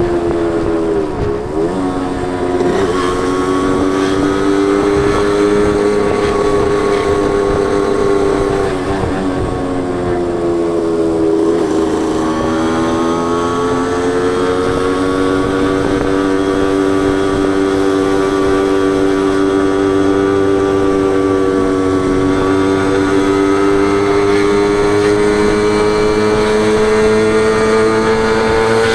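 Suzuki Wolf 125's single-cylinder two-stroke engine and exhaust running under way. The engine note dips about a second in and again around eleven seconds in, then rises gradually and holds at a steady pitch.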